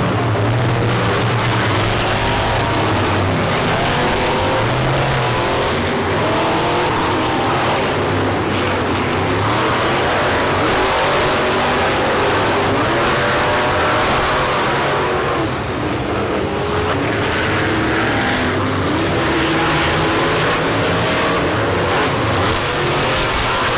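Monster truck engines revving hard and unevenly, the pitch rising and falling again and again.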